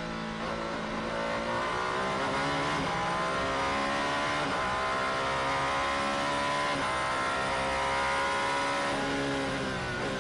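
Alpine A424 hypercar's twin-turbo V6 engine under acceleration, the pitch climbing and dropping sharply at each of about four upshifts. Near the end the revs fall away as it lifts off.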